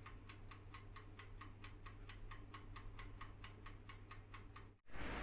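Steady, fast clockwork ticking, about five to six ticks a second, marking the oven's wait time; it cuts off abruptly near the end.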